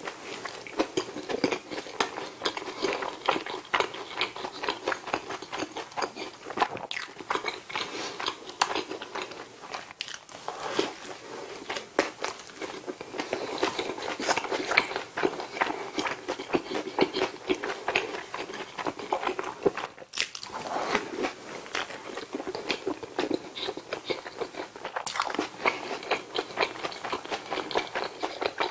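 Close-miked biting and chewing of McDonald's bulgogi burgers: soft bun, sauce and shredded lettuce crunching and squelching in the mouth, continuous apart from a few brief pauses.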